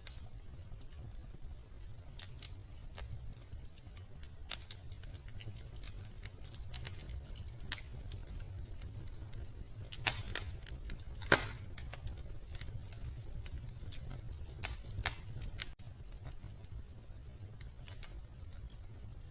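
Wood fire crackling in a fireplace: scattered small crackles over a low steady rumble, with a few louder pops in the middle and one sharp crack standing out about halfway through.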